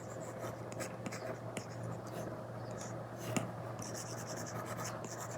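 Apple Pencil Pro tip scratching across an iPad screen fitted with a paper-like screen protector, in short drawing strokes with a few light taps, over a faint steady low hum.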